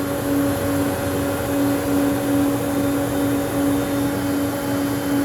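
Cantek 16-inch double-head helical planer running empty, its two 10 hp cutter heads spinning with a steady hum and whir at an even pitch.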